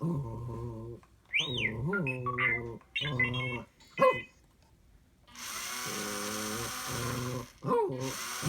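A dog growling and giving short barks at an R2-style astromech droid, which chirps and whistles in quick electronic beeps. About two-thirds of the way through, a steady hiss plays for a couple of seconds.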